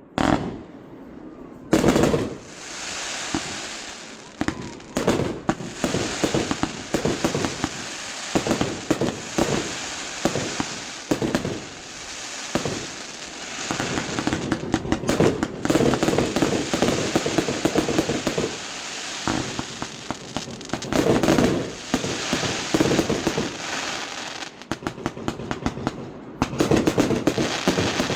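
A fireworks display: shells bursting one after another in rapid volleys, with dense crackling and a few short lulls between salvos.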